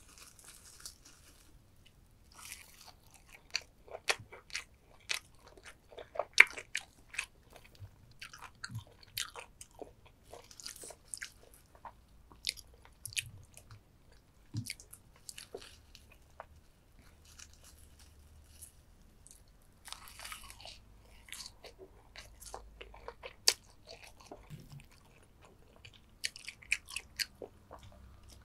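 Mouth noises of eating soy-sauce-marinated stone crab (dol-gejang): irregular crunching and sharp cracks of shell being bitten, with chewing between.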